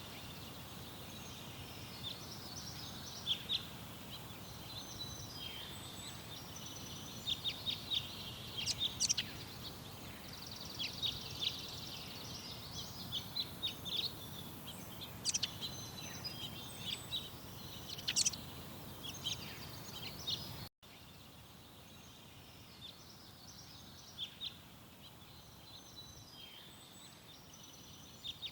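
Small garden songbirds chirping and twittering in quick short calls over a steady background hum. About two-thirds of the way through the sound cuts out for an instant, and the background is quieter afterwards, with fewer chirps.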